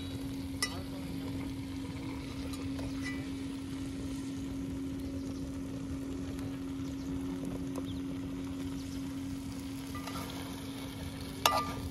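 Marinated chicken pieces frying in a little oil in an aluminium pot over a wood fire, a steady gentle sizzle. A few light clicks come from a metal slotted spatula stirring against the pot, over a steady low hum.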